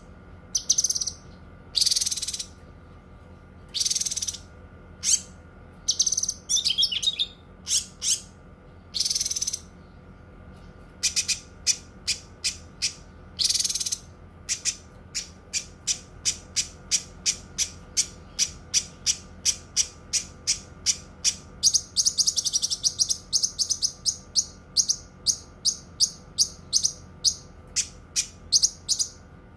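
Cucak kinoi singing: high-pitched notes at first spaced about a second apart, then from about eleven seconds in a long fast run of short repeated chips, several a second. A faint steady hum lies underneath.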